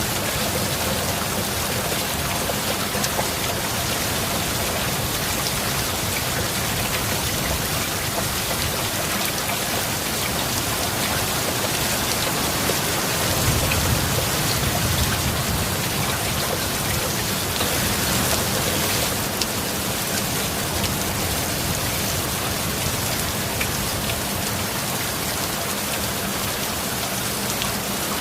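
Steady heavy rain: an even hiss of rainfall with scattered individual drop ticks. The low end swells briefly about halfway through.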